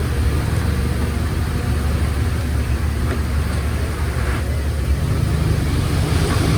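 Heavy diesel engine running steadily with a deep rumble, pulling a little harder from about five seconds in.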